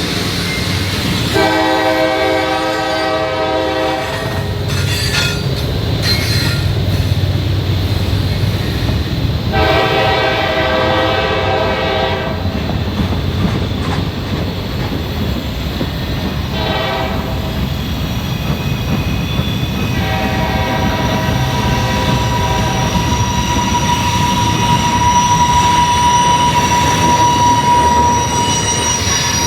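A locomotive horn sounds four times, long, long, short, long, the standard grade-crossing signal, over the rumble of a passing train. Near the end a steady high wheel squeal comes up.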